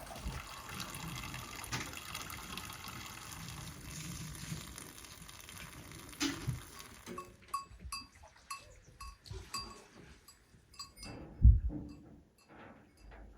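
Water running steadily for about the first half. It stops and gives way to a cowbell clanking irregularly, with one dull knock near the end.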